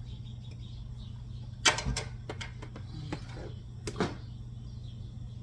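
Kitchen clatter: two sharp knocks of hard objects being handled, the louder one about two seconds in and a second about two seconds later, over a steady low hum.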